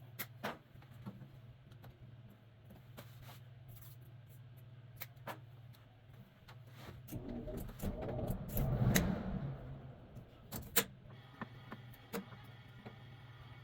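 Steady low hum from a running furnace, with scattered clicks and a burst of rattling handling noise about eight to nine seconds in.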